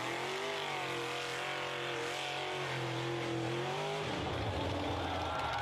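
Monster truck engine revving, its pitch rising and falling over about four seconds. About four seconds in, the sound changes abruptly to a different engine note with a high whine over it.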